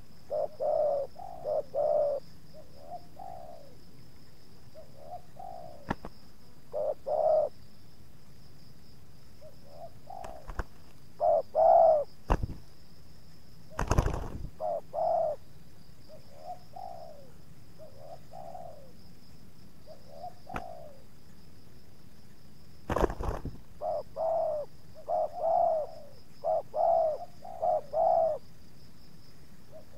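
Spotted doves cooing, repeated short coo notes in phrases of several. Two loud sharp knocks break in, about halfway through and again at about three quarters, with a few smaller clicks, over a faint steady high whine.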